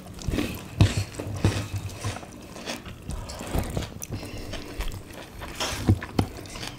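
Close-miked mouth sounds of people eating by hand: chewing mouthfuls of rice and sambal squid, with scattered sharp wet smacks.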